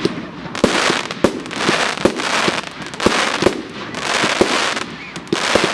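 Fireworks going off in a rapid, irregular string of sharp bangs, with hissing, crackling washes in between.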